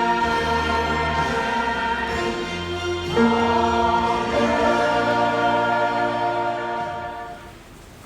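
Church choir singing held chords with accompaniment, moving to a new chord about three seconds in; the final chord fades out near the end.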